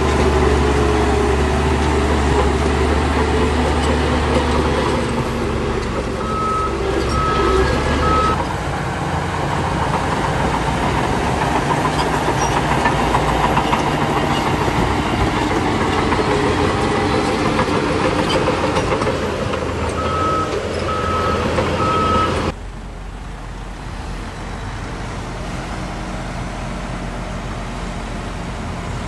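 Diesel engines of heavy earthmoving machinery running loud under load, with a reversing alarm beeping three times twice. About three-quarters of the way through, the sound drops suddenly to a quieter, steady engine hum.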